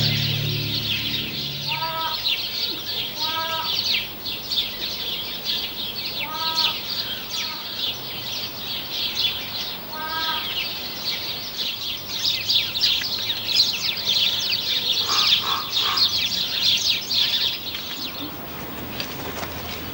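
Birds calling in an aviary: a dense, high, continuous twittering, with a short clucking call heard four times, roughly every few seconds.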